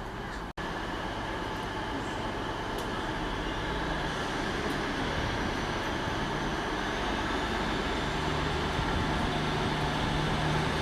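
A train approaching, its steady rumble with a low engine note growing gradually louder, and a faint high whine rising in pitch toward the end.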